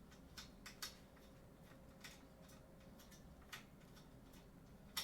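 Scattered light clicks and taps, about eight in a few seconds with a sharper click at the end, from a keyboard stand being handled and adjusted lower.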